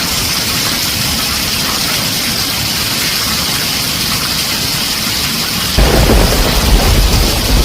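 Heavy rain on a tin roof, a steady dense hiss. About six seconds in, a deep rumble of thunder breaks in suddenly and keeps rolling.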